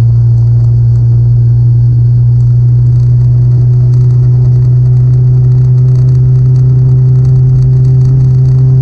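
Toyota Corolla's swapped 2ZZ-GE four-cylinder engine and exhaust running at steady revs under way, a loud, even low drone.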